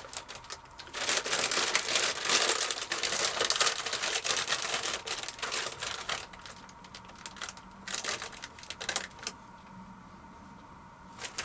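Plastic crisp packet crinkling as it is handled and pulled open: a dense run of crackles for several seconds, then a few scattered rustles about eight to nine seconds in.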